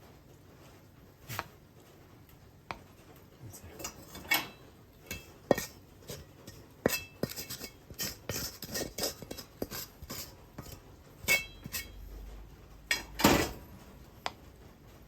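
Dishes and cutlery clinking and knocking as fried rice is handled and served: a scattered run of sharp clinks, some with a short ring, and the loudest knocks near the end.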